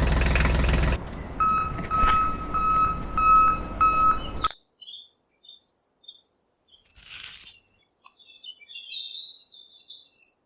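A small electric motor hums steadily for about a second, then gives way to a rougher clatter under five evenly spaced beeps; this stops abruptly about four and a half seconds in. After that, small birds chirp in short, scattered calls.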